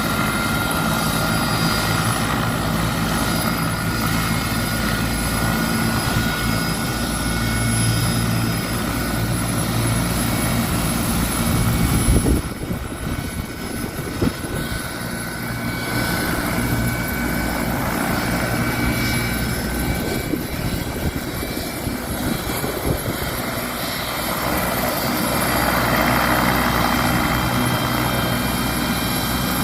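Medical helicopter's turbine engine and rotor running steadily, with a high whine over the rotor's low pulsing. About twelve seconds in, a brief loud rush cuts across it, and the sound grows again near the end.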